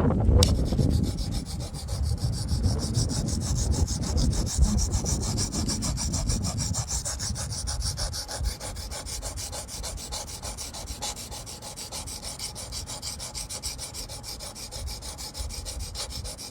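A steel knife blade scraping back and forth on a wet Wästikivi sharpening stone in quick, even strokes, sharpening a dull edge. Wind rumbles on the microphone over the first several seconds, then fades.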